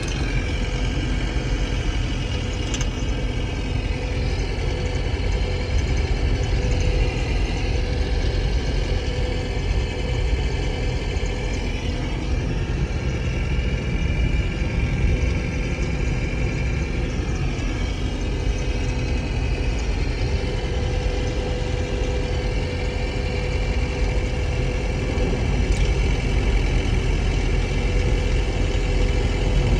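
2024 Chevy Colorado ZR2's 2.7-litre turbocharged four-cylinder engine idling steadily, with the engine rattle the owner is recording it for.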